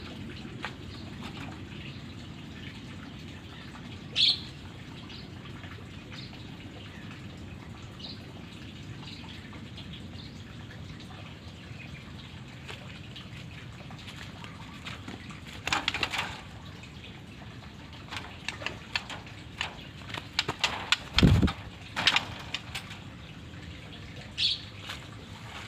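White-rumped shama fluttering and hopping about in a flight cage: clusters of wing flaps and sharp clicks from about 16 to 22 seconds in, over a steady low hiss, with a short high note about four seconds in and another near the end.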